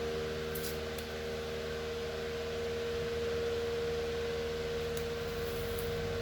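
Electric fan running steadily: an even whooshing hiss with a constant humming tone, and a few faint light clicks about half a second and a second in and again near the end.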